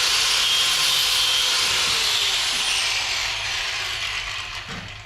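Power tool cutting, a loud steady grinding hiss that slowly eases off near the end.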